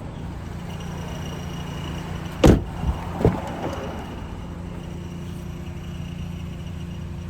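A car door of a 2010 Honda CR-V shuts with one sharp thud about two and a half seconds in, followed by a smaller knock, over a steady low hum.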